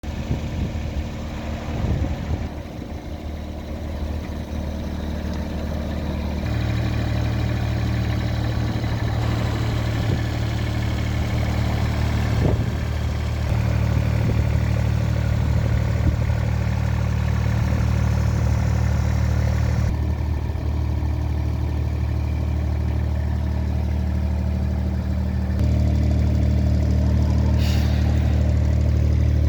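Diesel engine of a Volvo EC18E mini excavator running steadily, its note stepping up louder a few times as throttle or load changes. There is a short sharp clank about twelve seconds in and another near the end.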